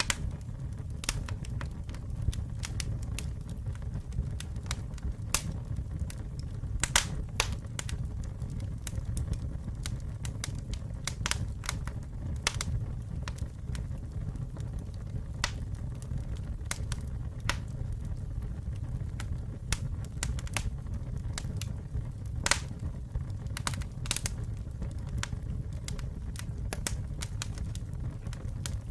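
Campfire burning with a steady low rumble of flames and irregular sharp pops and crackles of burning wood.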